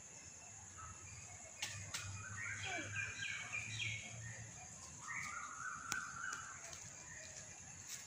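Birds calling: a quick series of short repeated notes about two and a half seconds in, then a lower series about five seconds in, over a faint steady hum.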